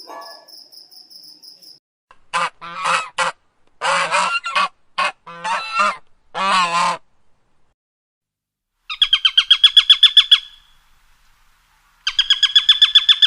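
Geese honking: a run of harsh, pitched honks over about five seconds. Then a fast, evenly pulsed high trill sounds twice, each about a second and a half long.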